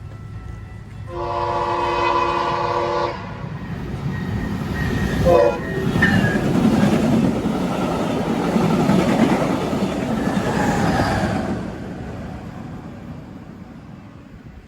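A VIA Rail passenger train led by a Siemens Charger locomotive sounds its horn, a chord held for about two seconds, then gives a short second note that drops in pitch about five seconds in. It then passes at speed with a loud rush of wheel and rail noise that fades away near the end.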